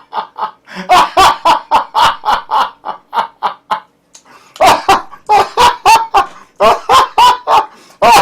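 A man laughing hard in long runs of quick voiced bursts, about four or five a second, with a short break near the middle.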